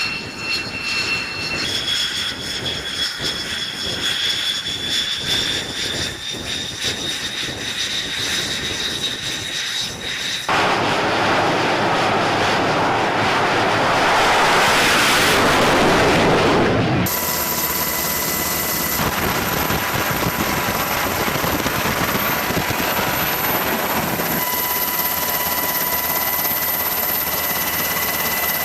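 Jet aircraft engine noise across several edited shots: first a steady turbine whine rising slowly in pitch, then, after an abrupt cut about ten seconds in, a loud rushing roar, then after another cut a steadier engine noise with thin high whines.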